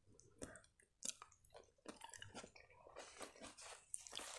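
Faint close-up chewing of food, a run of small, irregular wet mouth clicks.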